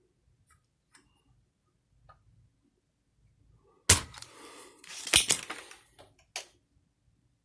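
Small hard parts and tools being handled on a bench: a few faint clicks, then a sharp knock about four seconds in. Rattling and scraping follow for about two seconds, with a second knock in the middle and a last click near the end.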